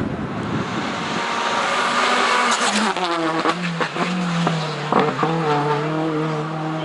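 Hillclimb race car engine running hard, its pitch shifting with gear changes, and several sharp cracks in the middle of the run. Tyres squeal.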